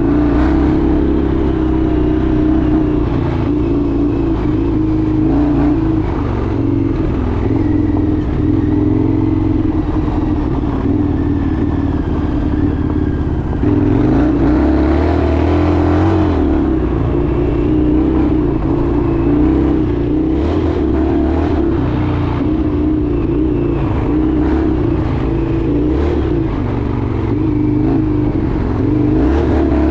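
Indian FTR 1200's V-twin engine running steadily under way, its note wavering slightly with small changes in revs.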